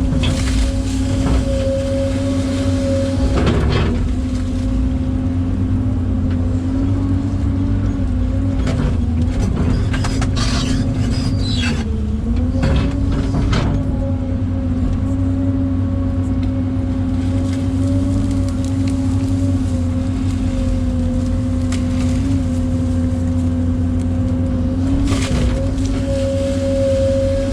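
Kobelco SK250 LC excavator working: its diesel engine and hydraulics run with a steady drone. The pitch sags briefly under load about twelve seconds in, with scattered clanks and knocks from the machine and bucket.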